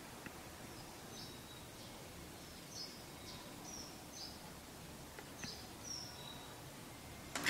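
Quiet room hiss with faint, scattered high chirps of small birds, about one every second or so.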